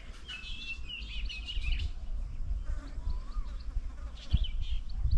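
Several small birds chirping and calling, with quick runs of short high notes, over a low rumbling noise; a couple of low thumps come near the end.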